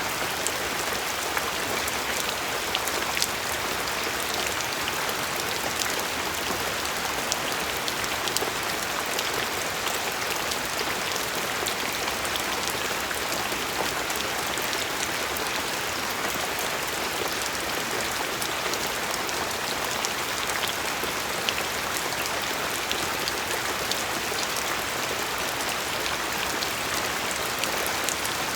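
Steady rain falling on a surface, a continuous patter with many individual drops ticking sharply through it.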